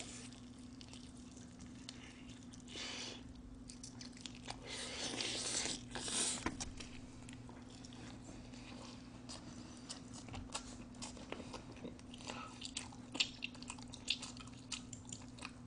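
Close-up eating sounds: biting meat off a piece of sauced smoked chicken and chewing it with wet mouth noises. There are louder swells of chewing about three seconds in and again around five to six seconds, then many small, quick clicks of chewing and lip smacks.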